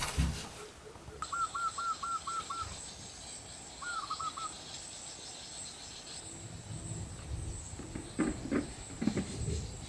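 Forest ambience: an insect's steady high-pitched drone, a bird calling a quick run of six short notes and then a shorter run, and a few soft knocks near the end.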